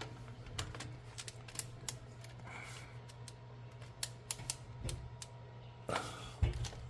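Scattered, irregular light clicks and taps of a wrench and socket as a spark plug is torqued into the cylinder head, over a steady low hum.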